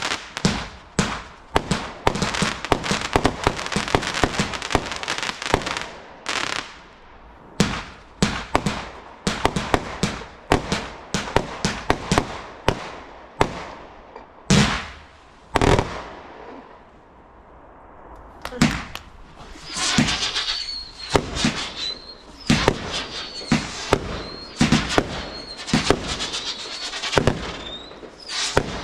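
Garden fireworks going off in quick succession: dense bangs and crackling at first, then spaced-out bangs with two big booms, a short lull, and in the last part bangs under a repeated wavering high whistle.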